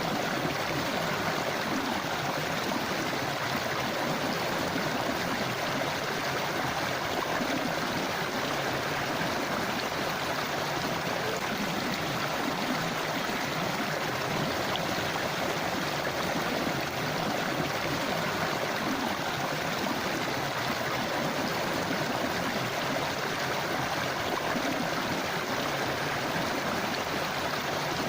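Forest river or stream flowing over rocks: a steady, unbroken rush of water.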